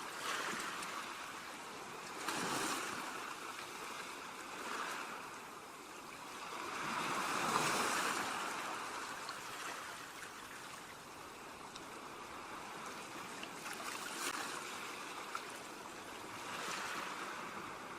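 Ocean waves breaking and washing up on a beach, rising and falling in swells every few seconds, the biggest a little before halfway through.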